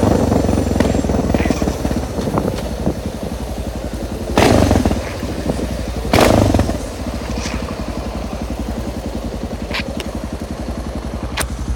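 Suzuki DR650 dirt bike's single-cylinder engine running at a steady low idle with a rapid even pulse, and two brief louder bursts about 4.5 and 6 seconds in.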